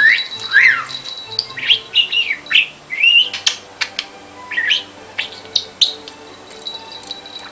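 Budgerigar chirping: a run of short, quick chirps that bend up and down in pitch, thinning out over the last couple of seconds. Soft background music plays underneath.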